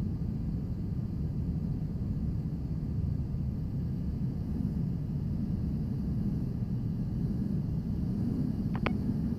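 Steady low roar of jet aircraft in flight, with a single short click near the end.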